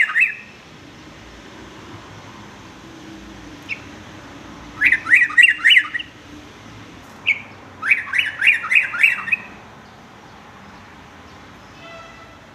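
Yellow-vented bulbul (cucak trucuk) singing an unusual variant of its song: two bursts of quick chattering notes, five or six notes each, a few seconds apart. Single short calls come just before each burst.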